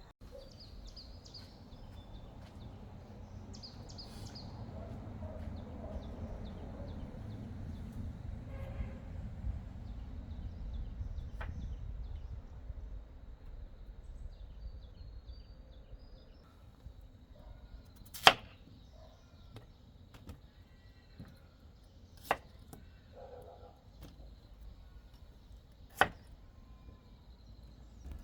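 A low rumbling noise for the first dozen seconds, then three sharp strikes about four seconds apart, with smaller knocks between them and faint bird chirps.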